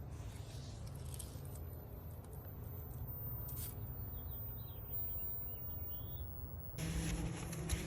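Steady low rumble of outdoor ambience with a few faint bird chirps about halfway through; near the end a louder, wider sound with a low hum in it starts abruptly.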